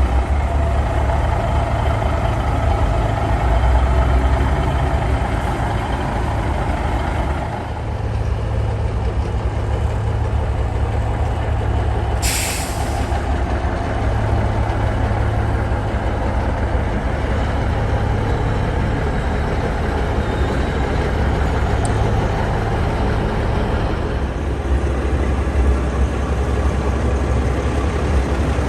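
Heavy diesel truck engine running steadily, with one short, sharp hiss of air from the air brakes about twelve seconds in.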